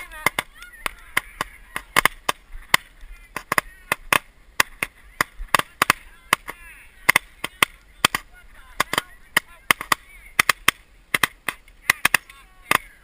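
Several Roman candles firing at once: an irregular string of sharp pops, several a second, with faint shouting voices between them.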